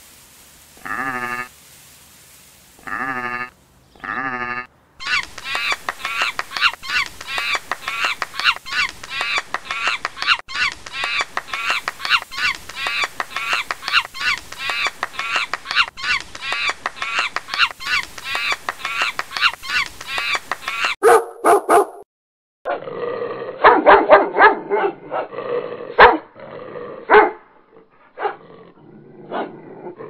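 A run of animal calls: three bleats in the first few seconds, then a long stretch of rapid, high, densely repeated calls, then dog barking and yipping from a little past the middle to the end.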